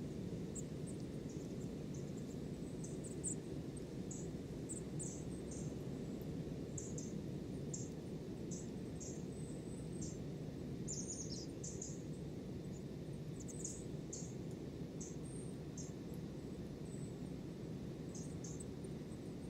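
Small birds giving many short, very high-pitched chirps at irregular intervals, over a steady low rushing noise.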